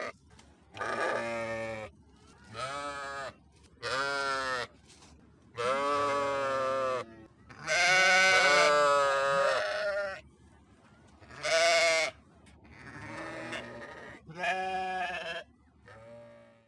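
Sheep bleating: about nine separate wavering calls of varying length, the longest and loudest about halfway through.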